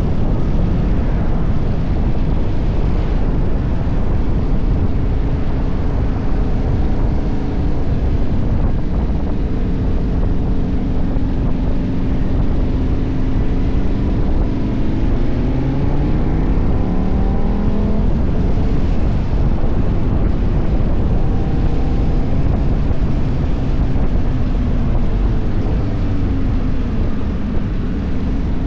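KTM 1190 Adventure's V-twin engine running on the road under heavy wind noise on the microphone; about halfway through the engine note rises as the bike accelerates, then settles.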